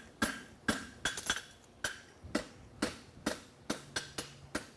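Forging hammer striking a hot steel horseshoe on an anvil in a steady rhythm, about two blows a second, each blow ringing brightly. The farrier is necking down the shoe's branch.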